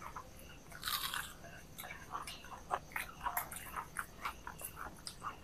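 Crisp crust of deep-fried vegetable chops (Bengali breaded vegetable croquettes) crunching as they are bitten and chewed: irregular little crackles, with a louder crunch about a second in.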